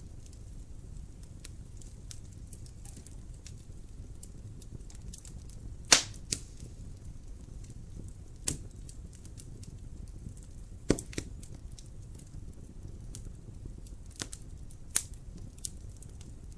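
Fire crackling in a fireplace: a steady low rumble of flames with many small ticks and four sharp pops, the loudest about six seconds in.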